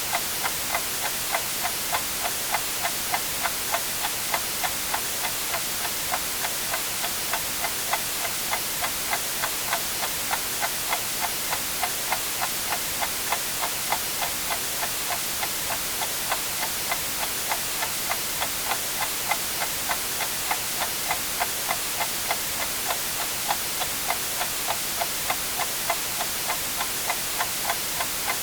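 A clock ticking evenly, several ticks a second, over a steady hiss of white noise.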